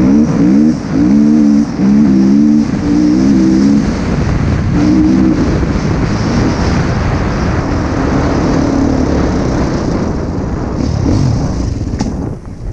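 Husqvarna TC 250 motocross bike engine revving hard under throttle. Its pitch climbs and drops several times in the first four seconds as it accelerates and shifts, then it runs steadier under a rush of wind noise and eases off near the end.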